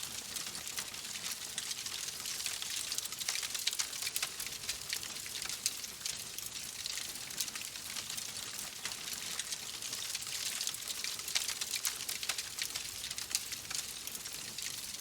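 Wood fire crackling in a fireplace: a steady high hiss dotted with many small, sharp pops.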